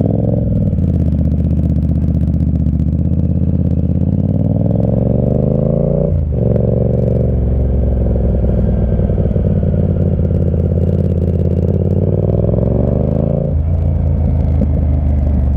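Yamaha MT-07's 689 cc parallel-twin running through an SC Project Conic 2-into-1 exhaust with the baffle out, accelerating under way. The engine note climbs in pitch and drops at each upshift, about six seconds in and again near the end.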